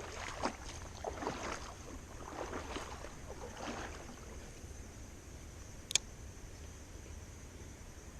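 Creek water splashing irregularly for the first few seconds, then a fainter steady rush of flowing water, with one sharp click about six seconds in.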